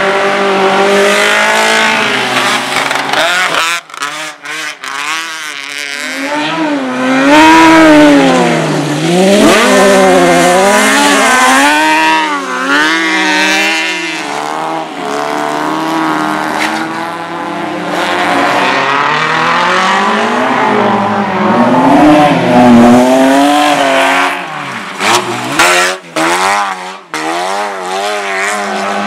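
Race car engines revving hard, the pitch climbing and dropping again and again through gear changes. There are several abrupt lifts off the throttle, with a few brief gaps where the engine note falls away.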